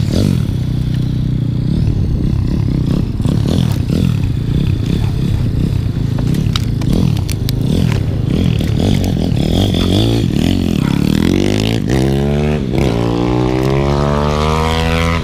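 Pit bike engine running at speed, then accelerating hard: its pitch climbs steadily from about eight seconds in, drops at a gear change a little past twelve seconds, and climbs again.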